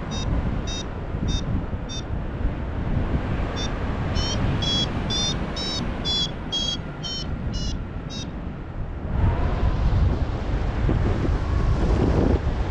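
Paragliding variometer beeping its climb tone: short high beeps at about two a second, with a brief pause, that stop about eight seconds in, a sign the glider is rising in lift. Wind rushes over the microphone throughout and gets louder once the beeping stops.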